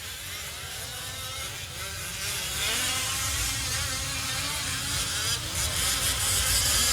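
Several fifth-scale gas RC off-road trucks' small two-stroke engines buzzing, their pitch rising and falling as they accelerate and back off. The sound grows louder in the second half as the trucks come closer.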